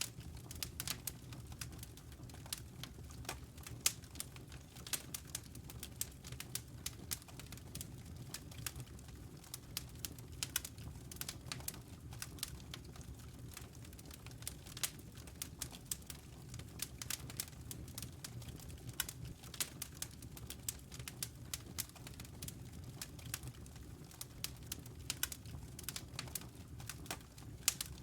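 Log fire in a fireplace crackling, with a constant scatter of irregular sharp snaps and pops over a steady low rumble of the flames.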